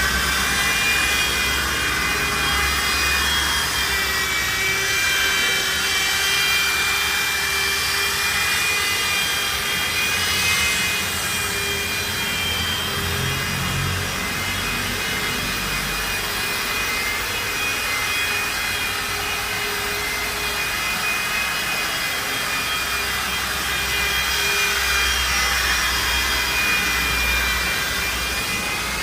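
Electric polisher running steadily with a high, slightly wavering whine, its pad buffing compound on a car's painted body.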